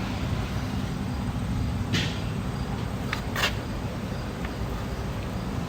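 Electric rotary polisher running steadily on a truck wheel, with a few short scuffing sounds about two and three and a half seconds in.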